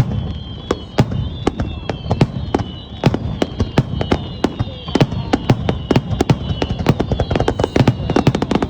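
Fireworks display: a rapid run of sharp bangs and crackles over low booming, coming faster near the end, with a thin high whine drifting slowly downward.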